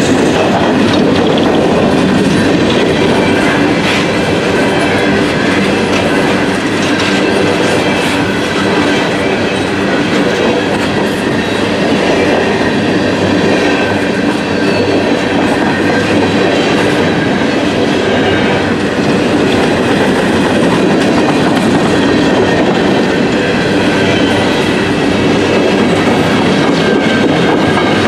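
Empty coal hopper cars of a freight train rolling steadily past, their steel wheels clattering over the rail joints in a continuous, loud rumble.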